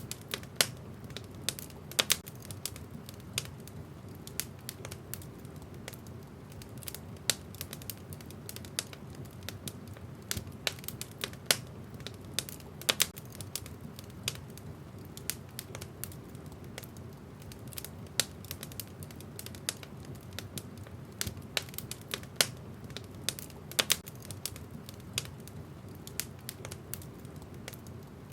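Wood fire burning in a fireplace, crackling: irregular sharp pops and snaps of uneven loudness over a steady low rush of the flames.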